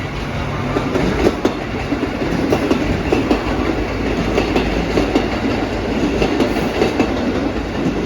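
KiHa 85 series diesel multiple unit pulling out of a station: a steady low rumble from the train, with its wheels clattering in irregular sharp clicks, several a second, over the rail joints and points.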